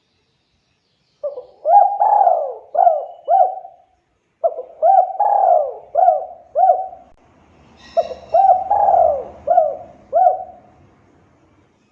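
Spotted dove (tekukur) cooing: three phrases, each a quick run of four or five coos, starting about a second in, with short pauses between phrases.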